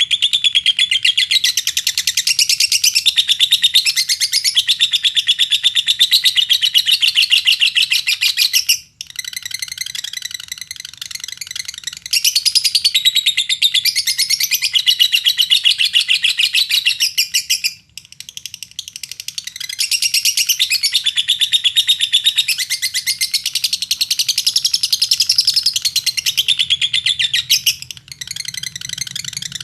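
Lovebird chattering in long, fast, unbroken trills, with short pauses about a third and two-thirds of the way through and again near the end. It is a lure recording meant to set other lovebirds singing.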